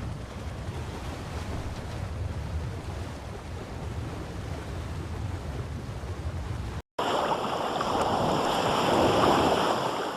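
Wind buffeting the microphone and water rushing past a sailing boat at sea. About seven seconds in, a cut brings a louder, hissing rush of water and spray.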